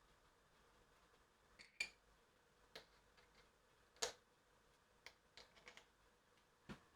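A few faint, sharp clicks and knocks at irregular intervals over near silence. The loudest comes about four seconds in, with a little cluster of smaller ticks shortly after.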